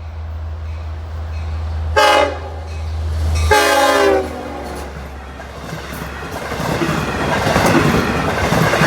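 Long Island Rail Road diesel passenger train sounding its horn: a short blast, then a longer one that drops in pitch as the locomotive passes, over the low drone of its engine. The rush and clatter of the cars going by then builds and stays loud.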